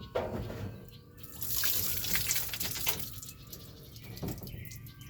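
Water from a garden hose running and splashing inside a kayak hull as it is flushed out, swelling into a louder rush of spray from about one and a half to three seconds in, with scattered clicks and knocks.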